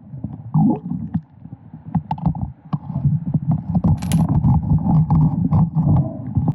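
Muffled underwater knocking and clicking of creek stones and gravel being shifted by hand, heard through a submerged camera while sniping for gold in a creek crack.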